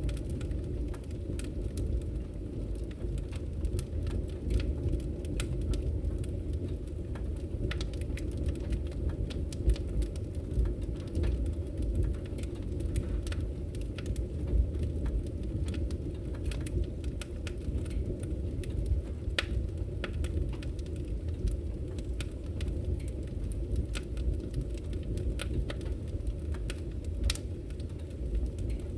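Wood fire burning in a fireplace: a steady low rush of flames with frequent irregular sharp crackles and pops from the burning wood.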